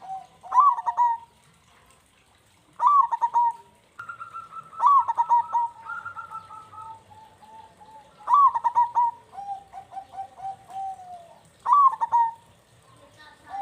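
Zebra doves (perkutut) cooing: repeated phrases of a short rising note followed by a quick run of staccato coos, every few seconds, with two birds' songs overlapping at times.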